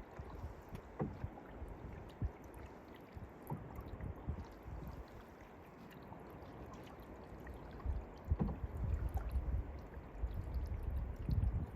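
Canoe being paddled: water noise from the strokes, with a few short knocks. A low rumble grows louder about eight seconds in.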